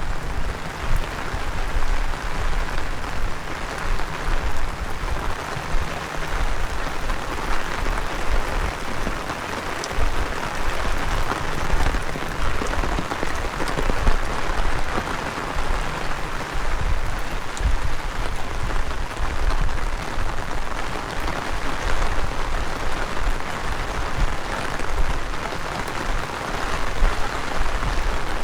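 Heavy rain falling steadily, a continuous hiss of rain on surfaces, with strong wind gusting against the microphone as an uneven low rumble.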